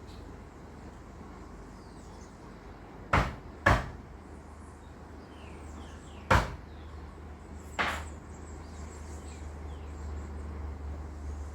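Four sharp knocks: two close together about three seconds in, one about six seconds in and a last one near eight seconds, over a low steady rumble.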